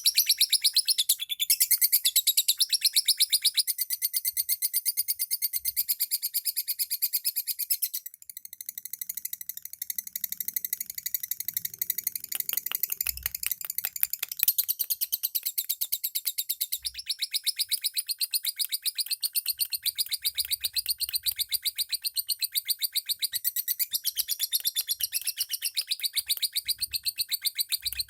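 Lovebirds chirping in a continuous, rapid, high-pitched chatter, briefly quieter about a third of the way in.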